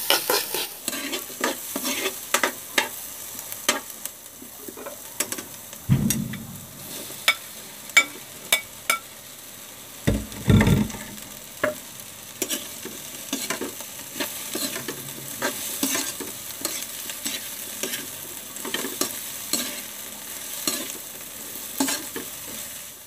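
Onion, garlic and flaked smoked fish frying in a little oil in a metal wok, sizzling, while a metal spatula scrapes and clacks against the pan in quick, irregular strokes. Two duller low knocks come about six and ten seconds in.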